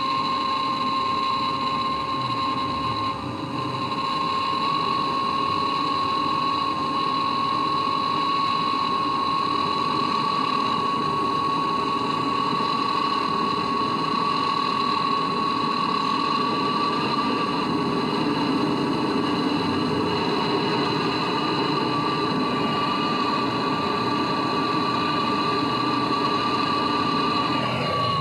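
LG two-door refrigerator's compressor running steadily during a refrigerant recharge, with a constant high whine over a hum.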